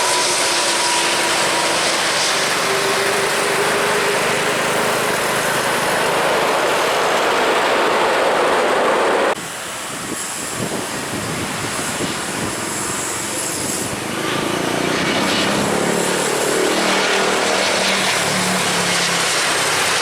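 Jet airliner engine noise, loud and steady with a slowly falling whine; about nine seconds in it cuts abruptly to a quieter engine noise with a low hum.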